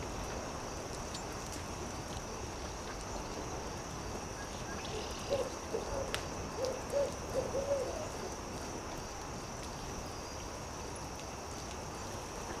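An owl calling a quick run of about six short, low hoots about five seconds in, over the steady hiss and scattered pops of a crackling campfire.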